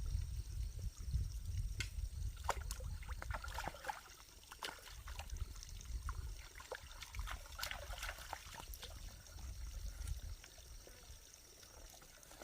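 Water trickling and splashing in small irregular spatters, over a low rumble that fades about four seconds in and comes back for a few seconds later.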